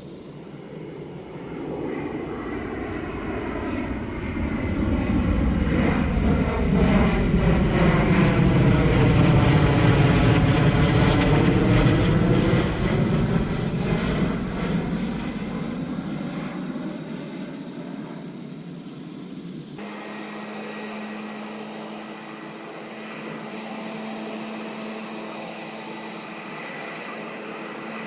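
An airplane flying overhead. It grows louder, peaks about ten seconds in with a falling high whine, then fades away. Near the end a quieter steady hum with a few held tones takes over abruptly.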